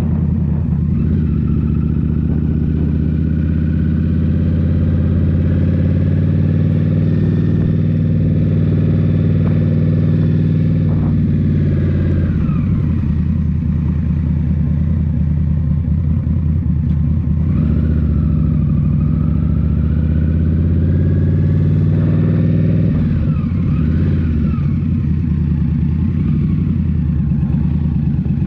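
Indian Scout Rogue's 69 cu-in V-twin running through a Rinehart slip-on exhaust while riding, steady for the first part, then its revs dip and climb again a few times in the second half.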